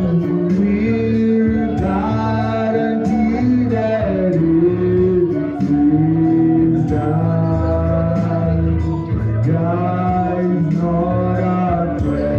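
Slow worship hymn sung over instrumental accompaniment, with long held notes gliding between pitches above a steady sustained bass.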